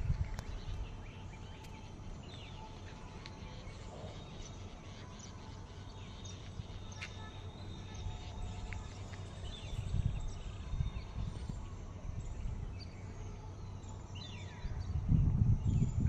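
Outdoor ambience with faint, scattered chirps of small birds. A low rumble on the microphone comes and goes, strongest near the end.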